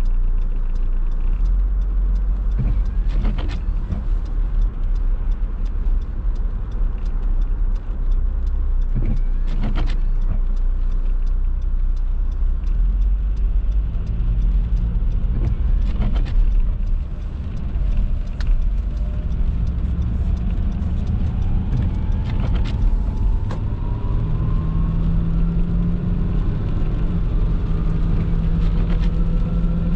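Car driving on a rain-wet road: a steady low rumble of road and engine noise, with short swishes every few seconds. In the last third a whine rises steadily in pitch as the car speeds up.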